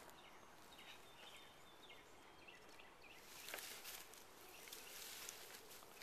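Near silence: faint outdoor background noise, a little louder from about three seconds in.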